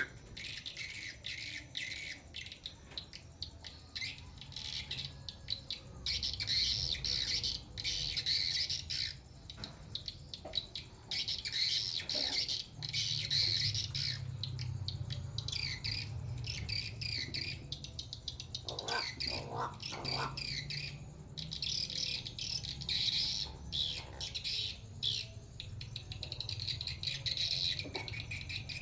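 Birds chirping and squawking in short repeated bursts, with a quick run of three short calls about two-thirds of the way in, over a steady low hum.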